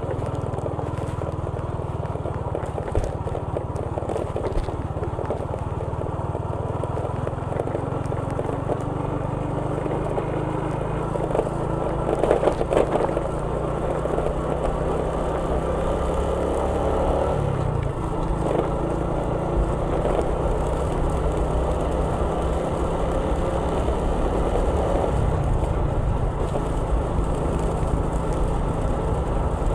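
Steady engine drone and road noise of a moving vehicle, heard from on board, with a brief louder rush about twelve seconds in.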